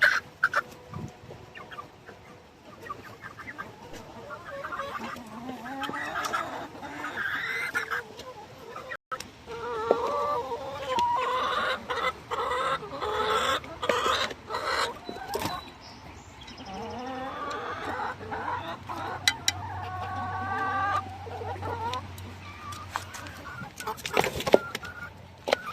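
Several chickens clucking and squawking over food, with many sharp clicks among the calls.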